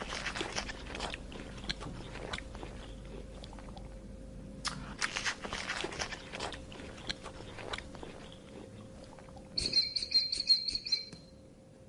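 An animal chewing and crunching food: irregular crunchy clicks, with a short, high, pulsing call near the end.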